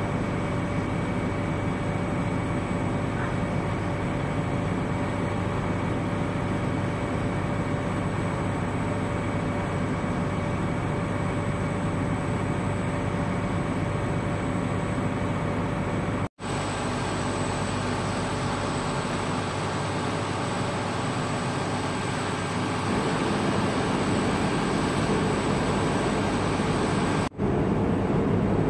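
Steady drone of running engines with a few constant whining tones on top. It cuts out abruptly twice, about two-thirds of the way through and again near the end.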